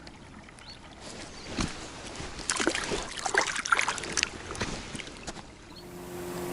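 Scattered clicks, rustling and light water sounds as a small, just-caught roach is handled. Near the end a steady, even hum sets in.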